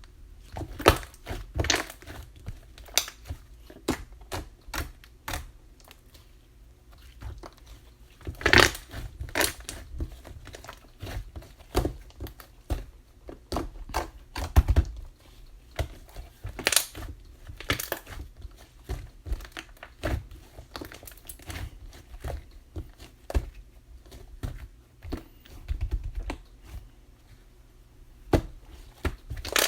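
Chocolate slime being handled by hand, making irregular clicks and pops.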